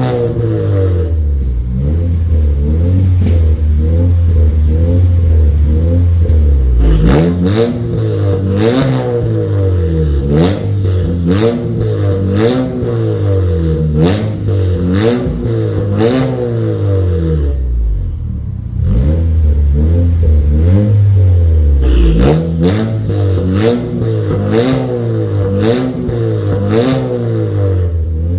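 Honda Civic FE's turbocharged four-cylinder engine blipped through an aftermarket valved full exhaust system, its pitch rising and falling about once a second over a steady idle, with a short pause about two-thirds of the way in.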